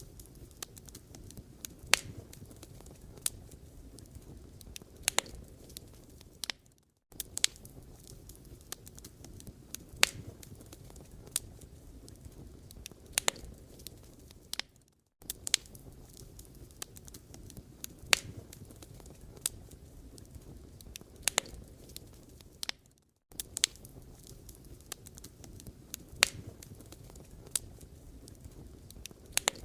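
Firewood burning: irregular sharp pops and crackles over a soft, steady low rumble of the flames. The sound drops out briefly about every eight seconds.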